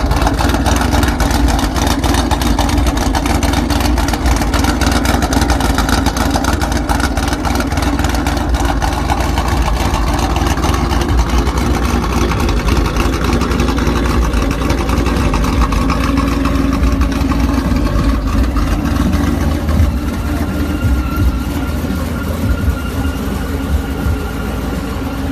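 A car engine and its exhaust running loudly and steadily.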